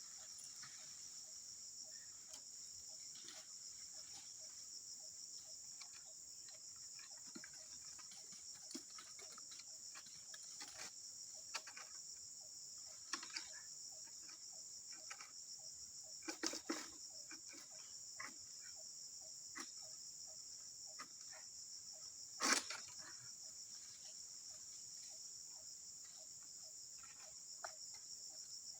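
Faint, steady high-pitched chorus of insects that pulses slightly, with scattered light clicks and rustles and two sharper knocks in the second half.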